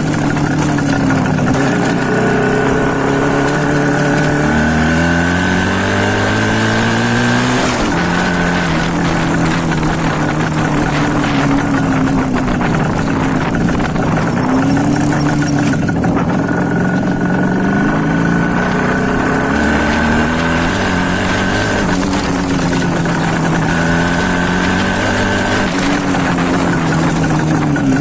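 Two-stroke single-cylinder engine of an IZh Planeta 5 motorcycle, with the silencer baffles removed, running hard as it is ridden. The engine note climbs and falls again and again as it accelerates and backs off, with a sharp drop about eight seconds in.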